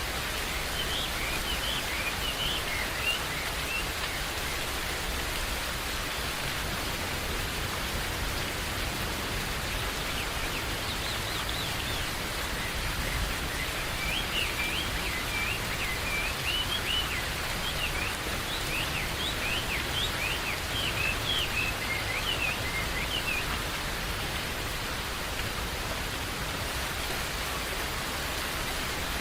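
Steady rain falling in a forest, with birds chirping over it: a few calls near the start, then many short chirps through the middle stretch.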